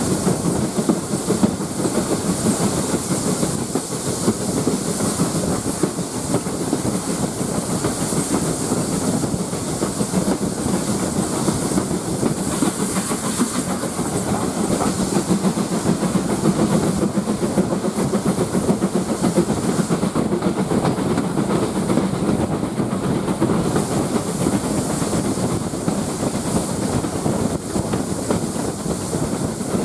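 Steam train running: a steady rumble of wheels on rail mixed with a continuous hiss of steam.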